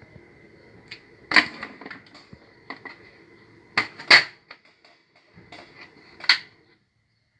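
A series of sharp clicks and clattering knocks from small hard objects, loudest about a second and a half in, twice in quick succession around four seconds in, and once past six seconds, over a faint steady high whine.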